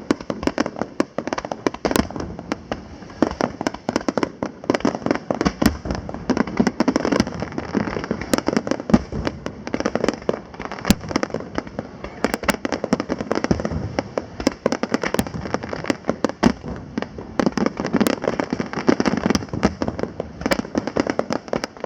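Aerial fireworks display: a dense, unbroken run of bangs and crackling shell bursts, several a second, over a low rumble.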